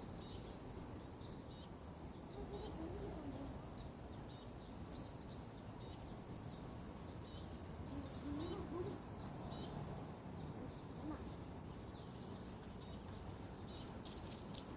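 Small songbirds chirping in many short, high calls over a steady background hiss of ambient outdoor noise, with a couple of faint low wavering sounds a few seconds in and past the middle.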